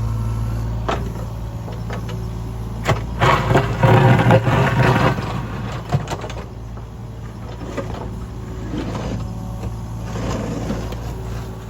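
Mini excavator's diesel engine running steadily, with sharp clanks and, about three seconds in, a couple of seconds of louder scraping and rattling as the bucket digs into the gravel and dirt.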